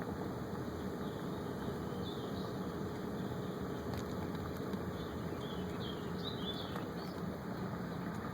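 Steady outdoor background noise with a faint hum, and a few small bird chirps in the middle.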